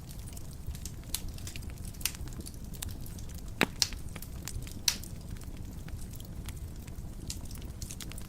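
Wood fire burning in a fireplace: a steady low rumble of the flames with frequent sharp crackles and pops, a few louder snaps near the middle.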